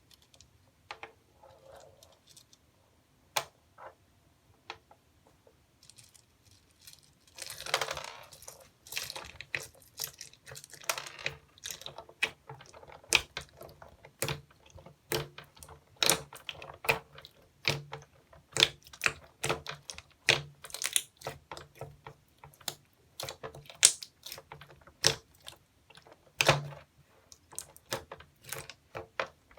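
Slime being squeezed and poked by hand, giving off sharp clicking and popping sounds as air pockets burst. The clicks are sparse at first and become dense and continuous about a quarter of the way in.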